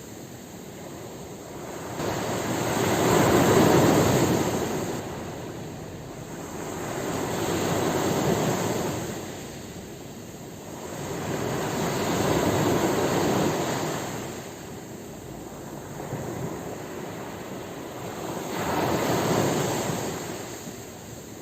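Ocean waves breaking on the shore: four slow swells of surf, each rising and falling in loudness over several seconds.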